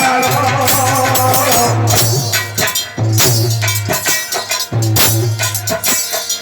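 Instrumental music: a drum beats a steady pattern of low strokes with rattling hand percussion. Held melodic notes sound over it for the first second and a half, then fade.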